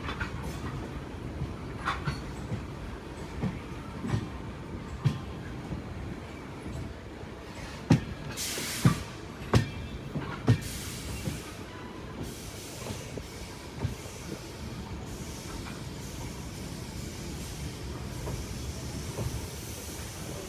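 Passenger train coach running on the track: a steady rumble with the wheels clicking over rail joints about once a second, a run of louder clacks around the middle, then a smoother steady run.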